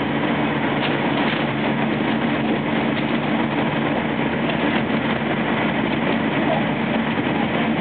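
JR West 225 series electric train running at steady speed, heard from inside the passenger car: a continuous rumble of wheels on rail with a low steady hum and a few light clicks.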